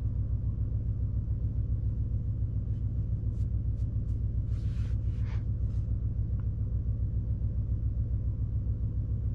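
Low, evenly pulsing rumble inside the cabin of a 2024 Mercedes-AMG S63 E Performance on the move, with a few faint clicks and a brief hiss around the middle.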